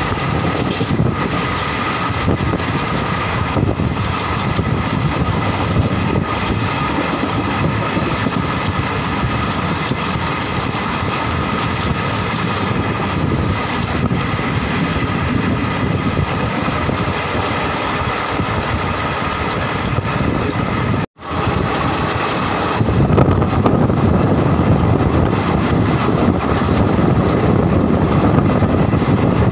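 Moving Indian Railways passenger train: the steady rumble and rattle of the coaches running on the rails, with a faint steady whine. The sound breaks off for an instant about two-thirds of the way in, and afterwards the rumble is louder and deeper.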